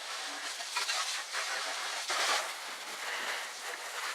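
Water spray hissing against a vehicle's body during a wash, surging louder about a second in and again about two seconds in as the spray sweeps across the surface.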